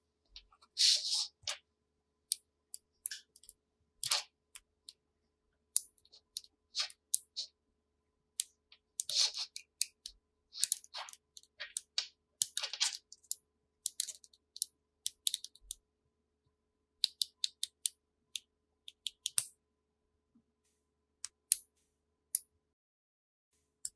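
Colored plastic magnetic building tiles clicking and clacking together as they are snapped into place and handled, in short irregular bursts of clicks.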